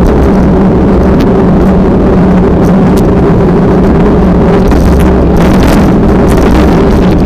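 Steady engine drone holding one pitch, with strong wind buffeting the microphone throughout.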